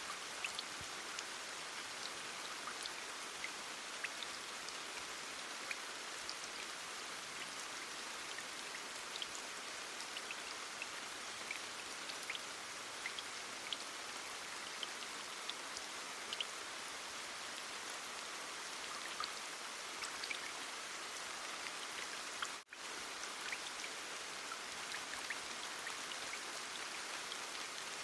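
Heavy rain falling steadily: an even hiss sprinkled with sharp ticks of individual drops, dropping out for an instant about two-thirds of the way through.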